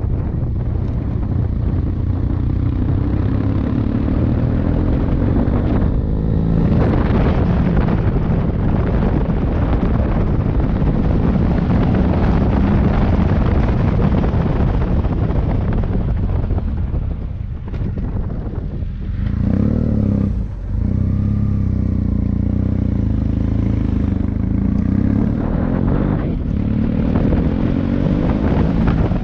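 Motorcycle engine running while riding, its pitch rising and falling with the throttle, with a brief drop in level about twenty seconds in.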